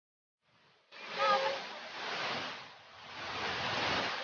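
Rushing water, a mountain stream or waterfall, cutting in abruptly out of silence about a second in and swelling again near the end, with a brief voice-like call just after it starts.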